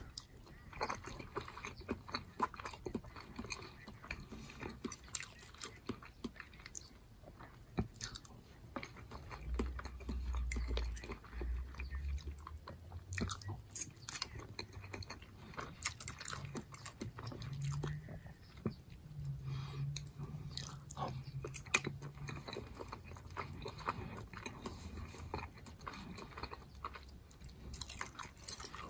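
Close-miked chewing of a mouthful of cooked food, with many short wet mouth clicks and smacks. A low rumble swells for a few seconds near the middle.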